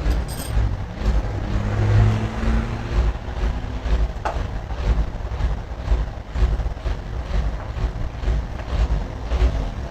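Large diesel truck engine running, with a heavy, uneven low pulsing.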